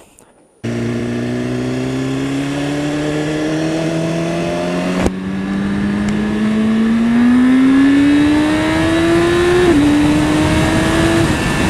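2015 BMW S1000RR's inline-four engine pulling hard in a low gear, its note climbing steadily under acceleration. Near ten seconds the pitch steps down suddenly as it shifts up, then climbs again.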